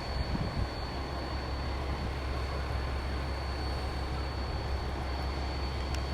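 Steady low mechanical hum with a thin, constant high-pitched tone above it, without a break.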